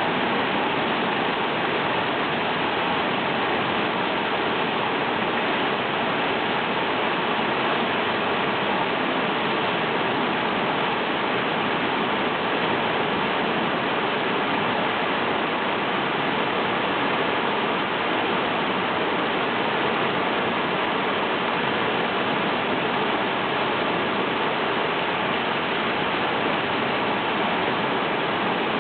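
Swollen river in flood after typhoon rain, its fast water rushing in a steady, even roar.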